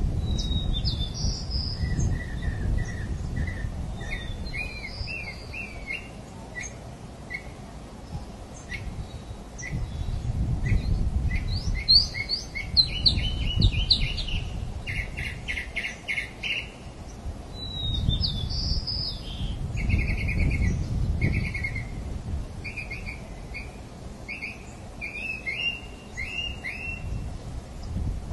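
Several birds chirping and calling, with many short notes and quick trilled series, over a low rumble that swells and fades.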